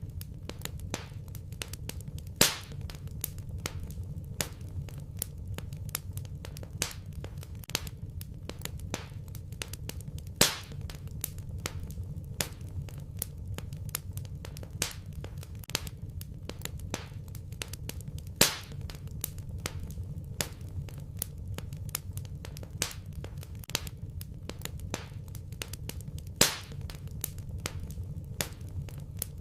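Fireplace fire crackling: a dense run of small, sharp crackles over a low, steady rumble, with four louder pops about eight seconds apart.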